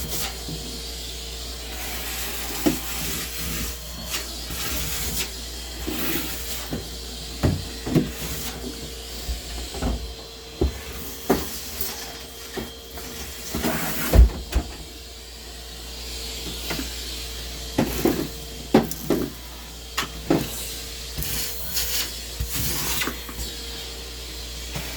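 Scattered knocks and clatters of household things being handled and moved, over a steady hiss and hum.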